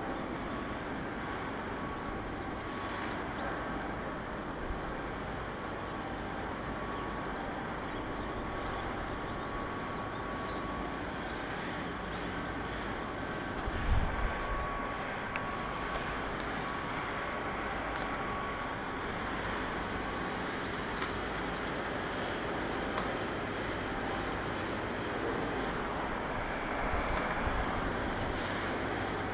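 Steady outdoor mechanical background noise with a faint steady whine that fades out about two-thirds of the way through, and a short low rumble about 14 seconds in.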